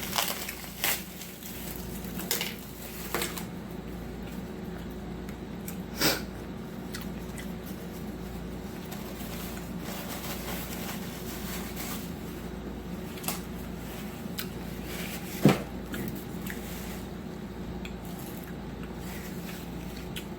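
Close-miked eating sounds: scattered clicks and taps of a utensil against a plate or food container, with soft chewing between them, over a steady low hum.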